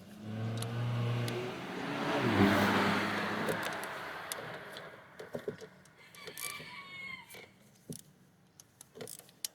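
A passing motor vehicle, its engine and road noise swelling to a peak about two and a half seconds in and fading away by about five seconds. Light scattered clicks and taps of hand tools on the engine follow.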